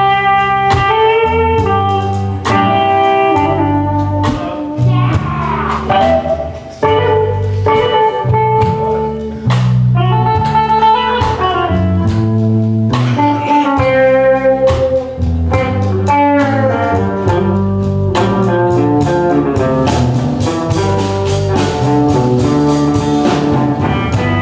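Blues band playing live, an instrumental passage with guitar lead over bass and drums.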